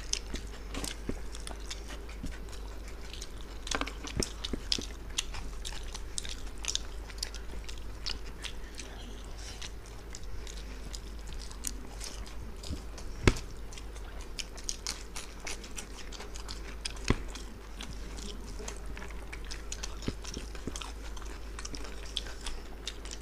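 Close-miked eating by hand: wet chewing and mouth sounds from two people working through mutton biryani, with a steady run of small clicks and squelches as fingers mix and pick up the rice. Two louder sharp clicks stand out, about halfway through and again a few seconds later, over a faint steady low hum.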